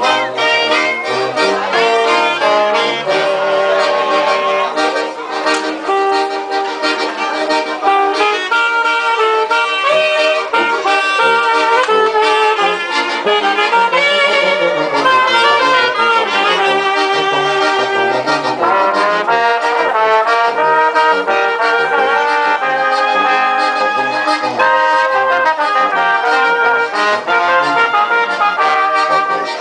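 Instrumental music led by brass horns playing melodic lines, with no singing.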